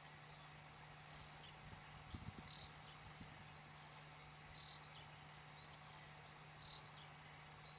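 Faint outdoor ambience: small birds give short, high chirps that fall in pitch, again and again, over a steady low hum, with a soft low bump about two seconds in.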